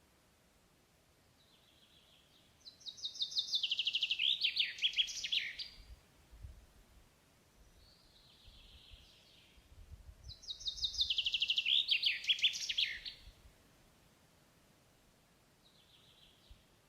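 A songbird singing the same phrase twice, about seven seconds apart: a fast run of repeated high notes that drops into a lower ending. Softer, shorter high calls come in between and once near the end.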